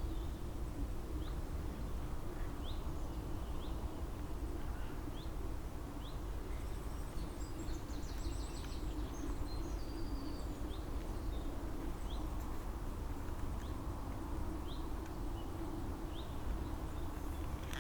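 Wild birds singing in spring: one bird repeats a short, high chirp every second or so, and a faster, busier trilling song from another bird comes in briefly about halfway through. Both sit over a steady low background noise.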